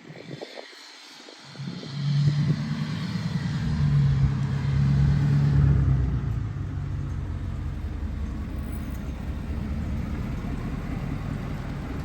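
A vehicle running: a low engine and road rumble swells up about two seconds in, peaks for a few seconds, then holds steady.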